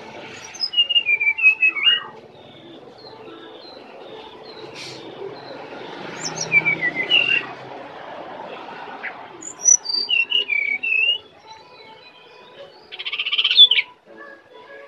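Brown-chested jungle flycatcher singing: four short phrases of clear whistled notes that slide up and down, the last, near the end, a fast trill.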